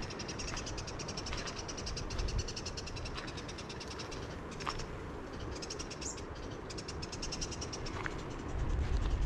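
Small bush birds giving a rapid, high alarm chatter from the scrub, a fast run of chirps with short breaks: alarm calls at a snake close by.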